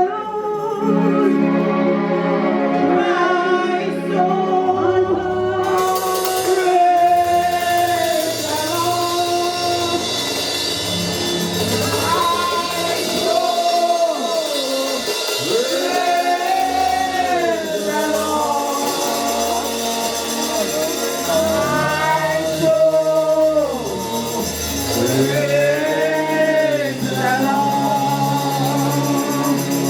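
Congregational gospel worship singing with a live band: voices over a bass line, with cymbals joining about five seconds in.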